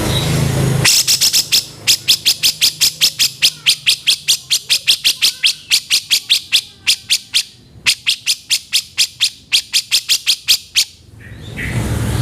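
Grey-cheeked bulbul (cucak jenggot) calling: a fast run of sharp, harsh repeated notes at about four to five a second, with a short break partway through. A harsh noisy sound comes before the run and builds again near the end.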